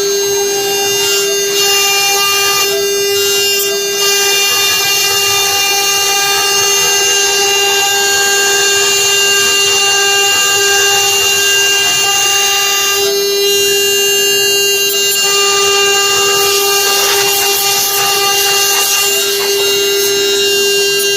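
Bogong CNC router's spindle running at high speed while its bit engraves wood: a steady high whine with a rasping cutting noise that rises and falls as the bit moves through the wood.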